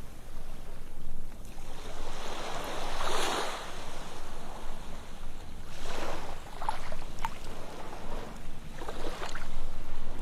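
Ocean waves breaking and washing up a beach, the surf swelling about every three seconds, with short splashes as the later waves wash in.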